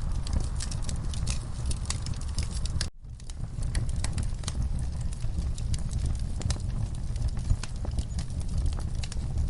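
Log fire burning with a steady low rumble and frequent sharp crackles and pops from the wood. The sound cuts out for an instant about three seconds in, then comes back.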